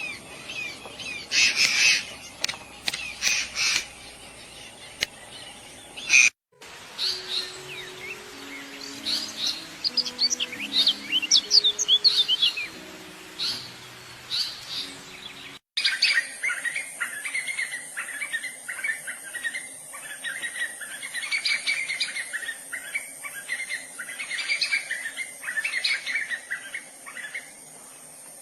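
Birds calling and chirping in three separate stretches with abrupt cuts between them. The first has loud, harsh, repeated calls. The middle has quick high chirps over faint low notes. The last has continuous dense chattering over a steady high hiss.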